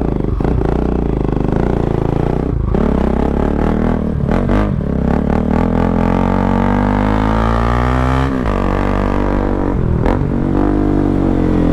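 Bajaj Pulsar NS200's single-cylinder engine heard through an Akrapovic exhaust with the dB killer removed, accelerating under load. The engine note rises through the gears, with short dips at gear changes about two and a half and four seconds in. It then climbs in one long pull and drops at a gear change about eight seconds in.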